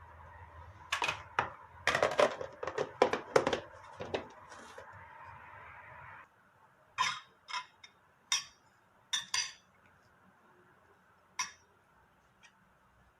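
Dishes and cutlery clinking: a quick flurry of clinks and knocks, then several single clinks spaced a second or so apart. A steady background hum cuts off about six seconds in.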